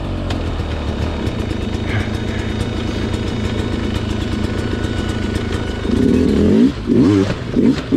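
Sherco two-stroke dirt bike engine running low and steady, then about six seconds in revved hard in a few quick blips.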